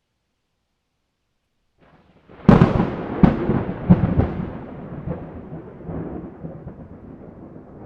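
A close thunderclap: a sudden loud crack with a few more sharp cracks over the next two seconds, then a long rolling rumble that slowly dies away.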